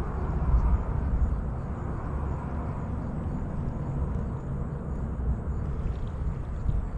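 Steady low rumble of outdoor background noise with a faint hiss over it.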